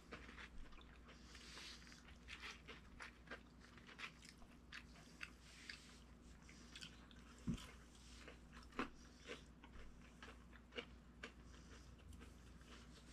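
A person crunching and chewing crisp food: a steady run of small crunches, with two louder bites a little past halfway.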